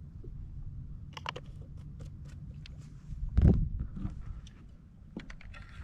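Wind buffeting the microphone as a steady low rumble, with scattered sharp clicks about a second in and near the end, and a dull thump about three and a half seconds in.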